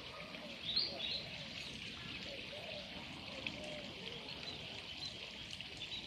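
Birds calling and chirping over a steady background hiss, with two quick rising chirps about a second in.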